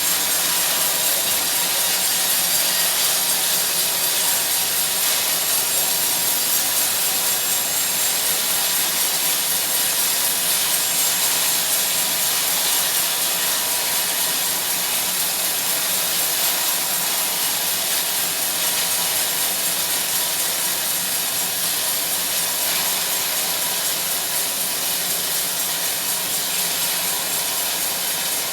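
Sawmill band saw cutting through a teak log: a steady, loud hiss of the blade running through the wood.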